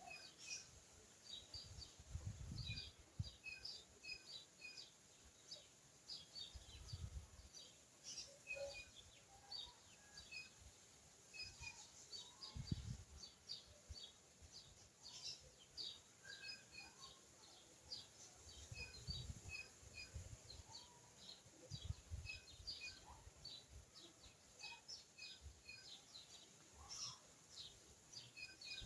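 Faint, rapid high chirps of small birds, repeated many times over, with a few short low thumps now and then.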